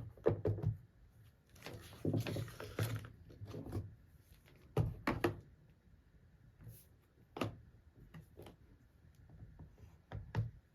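Unboxing handling noises: packaging and its contents rustle and knock, in several short bursts with quiet gaps. A sharp click comes about seven seconds in.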